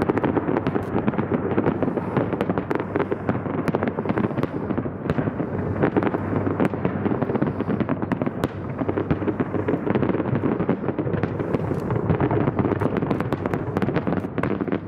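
Fireworks display: a dense, unbroken barrage of overlapping firework bangs and crackle.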